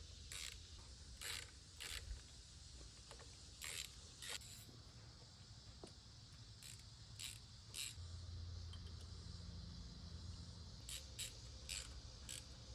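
About a dozen short, faint scraping or hissing strokes at irregular intervals, with a low hum coming in about eight seconds in.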